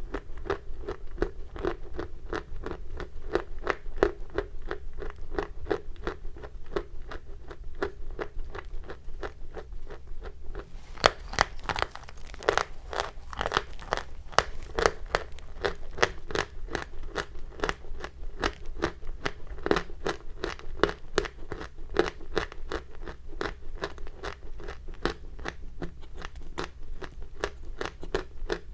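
Chalk being crunched, one crisp, gritty crunch after another at about three a second. The crunches turn sharper and louder for a few seconds around the middle.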